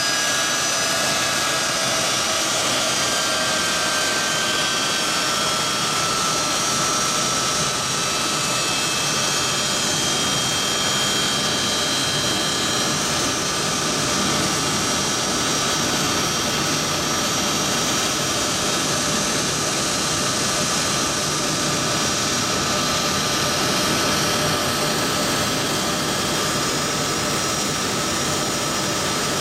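Jet turbine running steadily at low power: a constant rushing with several high whining tones that drift slowly in pitch.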